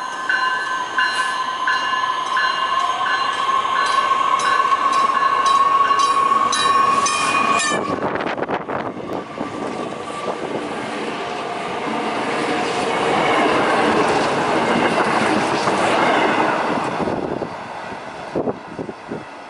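A Nippon Sharyo electric multiple-unit commuter train sounds its horn as it approaches at speed. The horn cuts off about eight seconds in, and the loud rush of the train passing close by follows. As it pulls away, a few clicks of the wheels over rail joints are heard.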